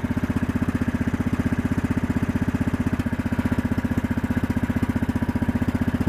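Kohler engine of a Yard-King riding mower running steadily with an even, rapid chug, shortly after a cold start from sitting about two months.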